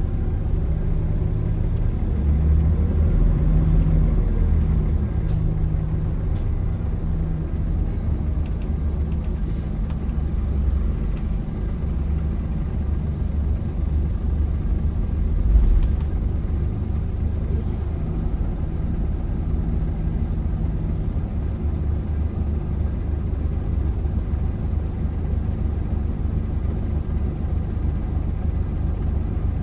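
Scania L94UB city bus in motion, heard from inside: its Scania DC9 five-cylinder diesel engine and drivetrain running with a steady low rumble and road noise. The rumble swells a few seconds in, and there is a single thump about halfway through.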